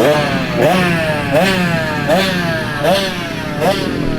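Pit bike engine being blipped over and over, the revs snapping up and dying back down about once every three-quarters of a second.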